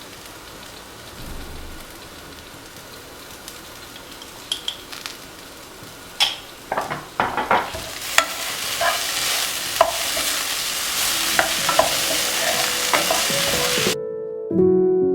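Cooking in a pan: a spoon or spatula clicks and scrapes as food is stirred, then from about halfway through a frying sizzle sets in and grows louder. Near the end it cuts off suddenly to soft instrumental music.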